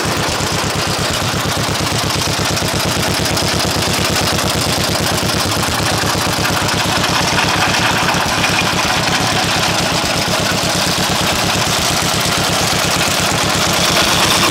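1942 John Deere Model LA tractor's two-cylinder engine running steadily, with a rapid, even exhaust beat.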